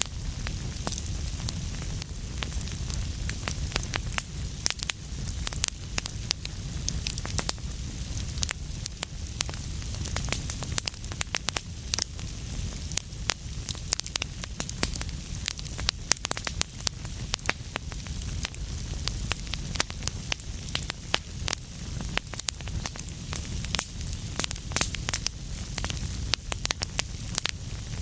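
Wood fire burning in a fireplace, with dense irregular crackles and pops over a steady low rumble of the flames.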